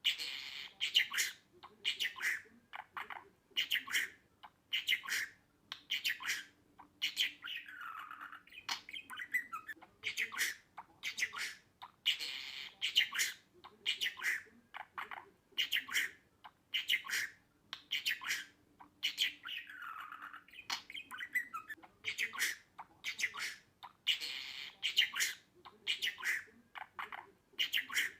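Budgerigar chattering and warbling in quick squawky bursts, with a falling chirp now and then. The same sequence repeats about every 12 seconds.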